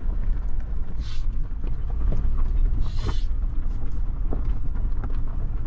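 Suzuki Jimny being driven over a rough mountain road: a steady low rumble of engine and tyres, with small knocks and rattles, and two brief hissing surges about one and three seconds in.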